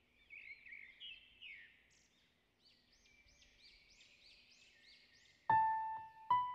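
Wild birds chirping, with a quick run of repeated rising-and-falling notes in the middle, about three a second. About a second before the end, piano notes of background music come in, each struck note ringing out.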